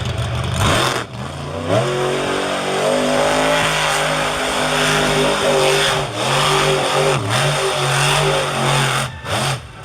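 Monster truck engine revving hard. Its pitch climbs about a second and a half in and then stays high with small dips, and it cuts out briefly twice near the end.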